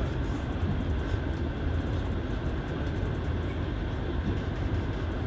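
Steady rumble of a moving passenger train, heard from inside the carriage.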